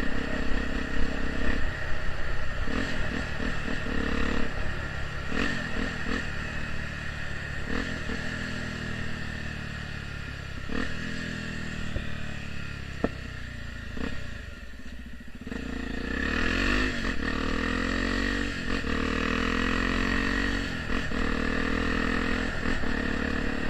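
Honda XR 250 Tornado's single-cylinder engine breathing through an aftermarket Pro Tork exhaust: the engine note falls over several seconds as the throttle is closed, with sharp backfire pops on the overrun, then rises again as the throttle opens about sixteen seconds in.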